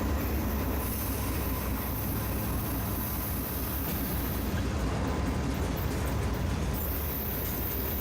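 Freight train rolling past: a steady, unbroken noise of wheels and cars on the rails.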